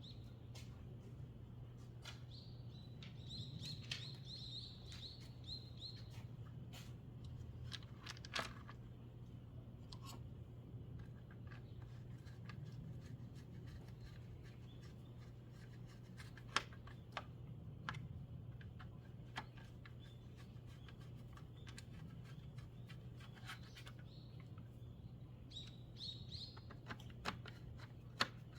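Faint bird chirps, in a short run a few seconds in and again near the end, over a steady low hum. Scattered sharp clicks and taps sound throughout, the loudest two about halfway through and just before the end.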